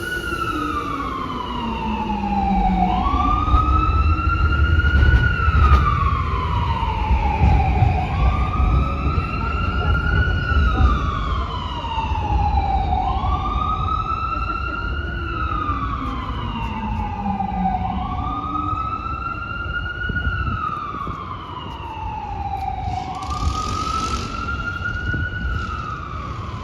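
Emergency vehicle siren on a slow wail, its pitch rising and falling about every four and a half seconds, over a low rumble that is heaviest in the first half.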